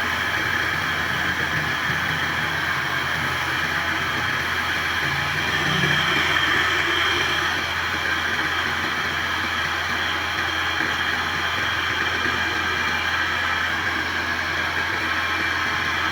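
A machine running steadily: a constant low hum under an even hiss.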